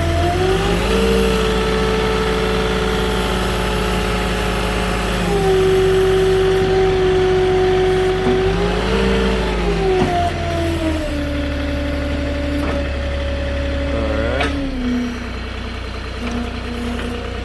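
Moffett truck-mounted forklift's diesel engine running under load, its revs rising and falling several times as it is driven and the lift is worked. Near the end the revs drop, with a brief falling whine.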